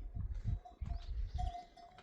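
A flock of goats and sheep on the move, with a livestock bell ringing on and off and a faint bleat about a second in, over a run of low thuds.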